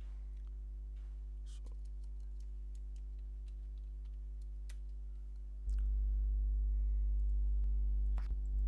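Steady electrical mains hum with its overtones, with a few faint scattered clicks over it. The hum suddenly gets louder about two-thirds of the way through.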